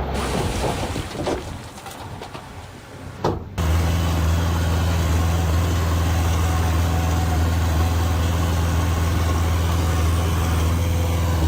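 Uneven machinery and ground noise with a sharp knock, then, about three and a half seconds in, an abrupt change to a heavy diesel engine of earthmoving machinery running steadily at low revs with a deep, even hum.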